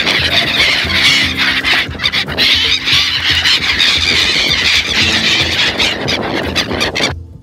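A flock of brown-headed gulls calling all at once, a loud, continuous chorus of high-pitched cries that cuts off suddenly near the end, with background music underneath.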